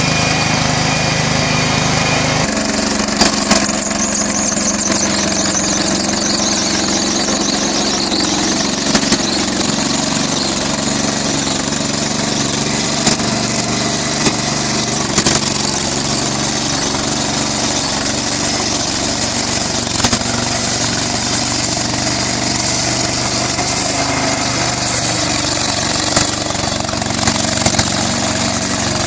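Propane-fed Southpenn 20 HP hit-and-miss flywheel engine running after a cold start. The sound is a steady mechanical run with a brief sharp knock every few seconds, and the pitch drops slightly about two seconds in.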